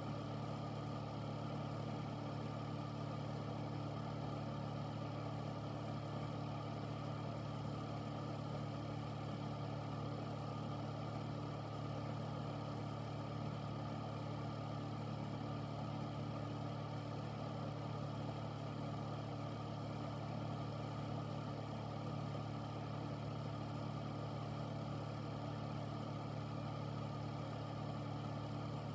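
Air filter unit running steadily: a constant low motor hum over the even rush of its fan moving air.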